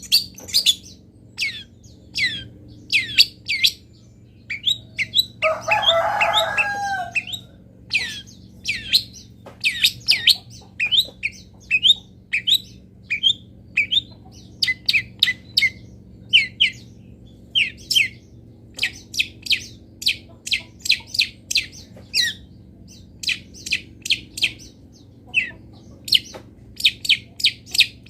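Songbird chirping in a rapid, continuous series of short, high, down-sweeping notes, several a second. Between about five and seven seconds in there is one lower, harsher call.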